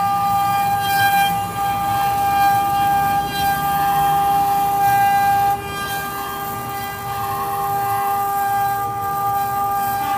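Spindle motors of a four-head CNC wood carving router running, a steady high whine over a low rumble as the bits cut wood. The loudest tone drops in level a little past halfway.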